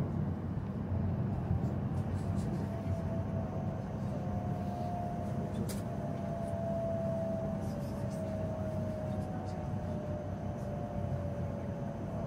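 E7 series Shinkansen braking as it slows into a station: a steady low running rumble with a faint high whine that drifts slowly down in pitch.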